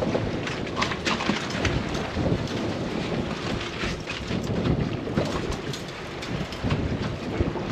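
Wind buffeting the microphone on a small boat at sea, a steady rumble broken by many short gusts, with water splashing and slapping against the hull.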